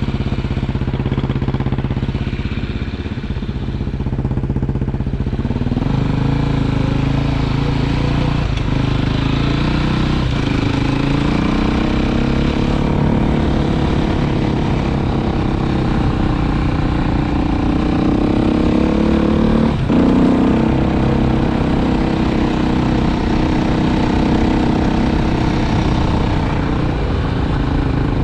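Motorcycle engine running while riding. It holds a lower, steady note for about five seconds, then revs higher and rises and falls with the throttle, with a few short knocks along the way.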